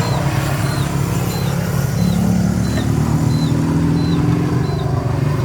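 A small engine running steadily, rising slightly in pitch for a couple of seconds in the middle. Over it comes a series of short, high chirps, about eight of them evenly spaced, which stop near the end.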